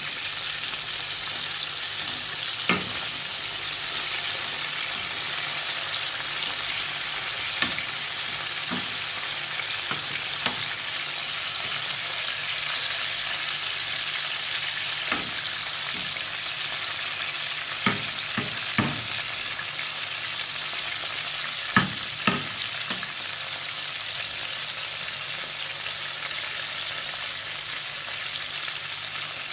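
Chicken back pieces sizzling steadily as they fry in oil in a stainless steel saucepan, with a metal spoon clinking against the pan about eight times as they are stirred and turned.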